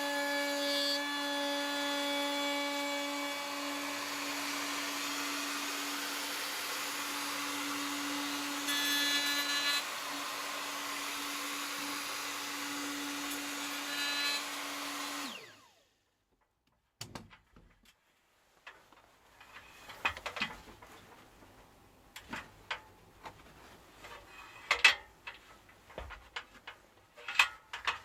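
An electric motor runs with a steady hum, then is switched off about fifteen seconds in. After a brief silence come scattered clicks and knocks of things being handled.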